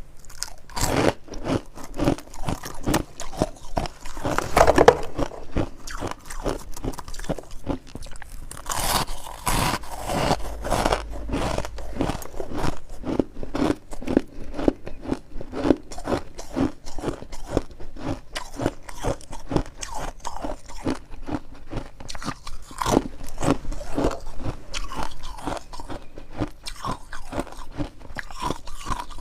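Dense freezer frost being bitten and chewed with close, rapid crunches, several a second, going on steadily.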